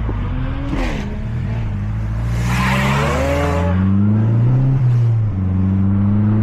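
Mazda 3 MPS's turbocharged 2.3-litre four-cylinder engine under hard acceleration, heard from inside the cabin: the engine note climbs steadily, drops briefly about five seconds in as a gear is changed, then pulls on again. A loud burst of hissing noise rises over the engine for about a second midway.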